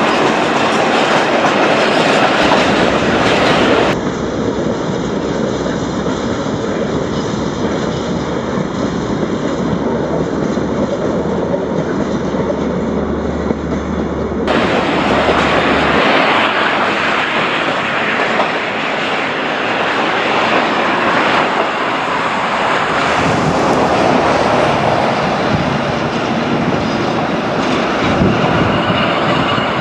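Freight wagons rolling along the tracks, their wheels clattering steadily over the rail joints. From about four seconds in to about the middle there is a diesel locomotive's low engine hum underneath.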